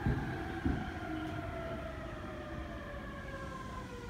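Electric commuter train braking into the platform: its traction motors whine in several tones that fall slowly in pitch as it slows, with a couple of knocks from the wheels in the first second.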